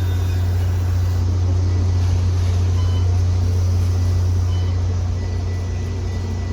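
Steady low drone of a train idling, with a constant hum under a wash of background noise. It eases off slightly near the end.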